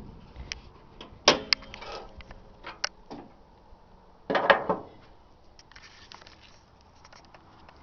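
Metal clunks and clicks from the truck's hood being opened: a sharp clank about a second in with a brief ring, a few lighter knocks, and a longer rattling clunk a little past the middle.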